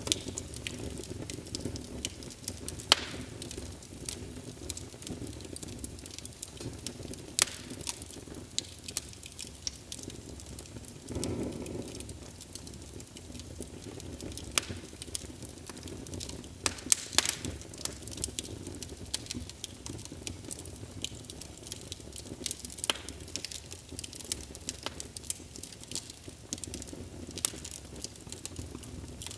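Wood fire burning in a fireplace, crackling with irregular sharp pops over a low steady rumble of the flames, with a cluster of pops about two-thirds of the way through.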